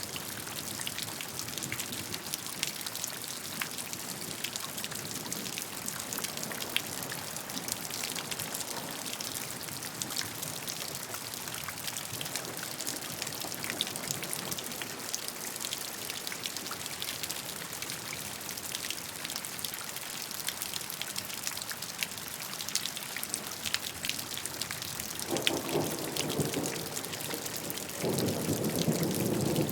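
Steady gentle rain falling, with many individual drops ticking over an even hiss. Near the end, two brief low rumbles swell up.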